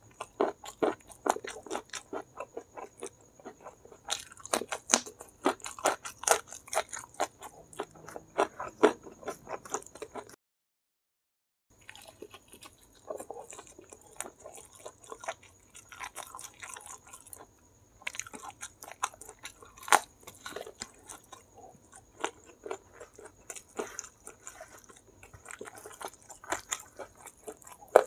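Close-up chewing and crunching of crispy battered fried chicken with rice: a quick, irregular run of crunchy bites and mouth sounds. The sound drops out completely for about a second near the middle.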